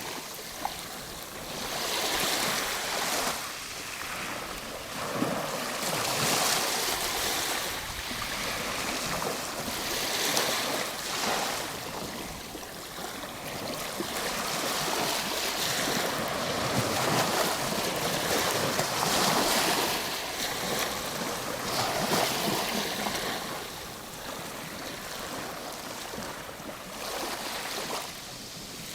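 Ocean waves breaking and washing on a shore, the surf swelling and easing every few seconds.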